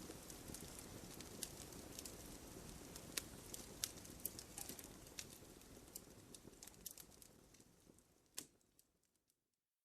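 Campfire crackling: scattered sharp pops and snaps over a low hiss of burning wood, fading out over the last few seconds, with one louder pop near the end.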